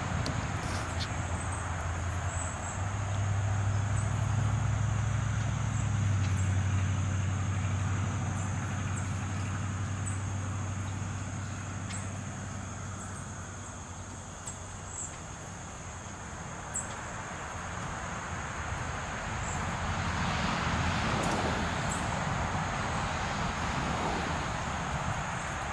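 Road traffic: a vehicle engine hum with tyre noise that fades away and swells up again, as if cars are passing. A steady high-pitched whine runs underneath.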